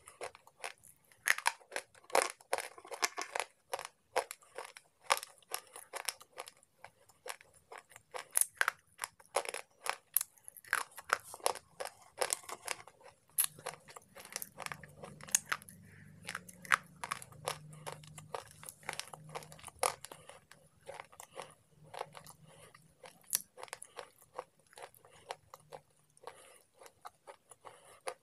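Slate pencils being bitten and chewed: a long run of sharp, brittle crunches that come thickest in the first half and thin out towards the end.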